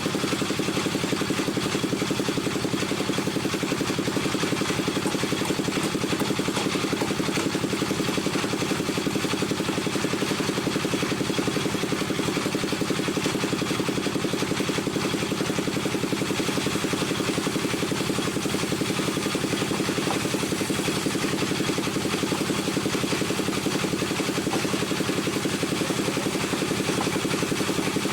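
Wood lathe running at a steady speed: an even motor hum with a fast, fine buzz and no change in pitch.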